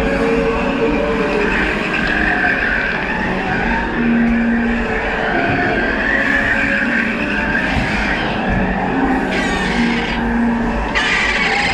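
Disneyland Railroad steam train running on its track, heard from aboard: a steady rumble with a wavering high squeal of wheels on rail. Near the end there are two short bursts of hiss.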